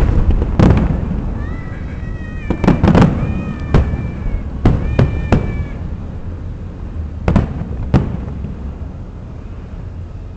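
Aerial fireworks shells bursting in a series of about eight sharp bangs, each with a rumbling echo. Between the bangs, from about a second and a half in, there are high wavering whistle-like tones for a few seconds.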